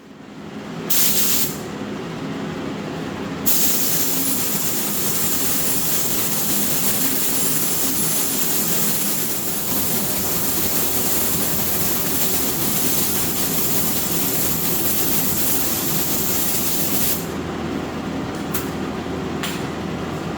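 Clear coat being sprayed: a short burst of spray hiss about a second in, then one long steady spray, then two brief bursts near the end, over a steady low machine hum.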